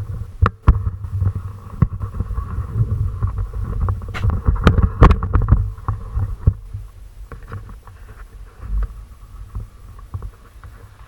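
Wind buffeting the microphone, with a run of sharp knocks and clatters that is densest about four to six seconds in and thins out after that.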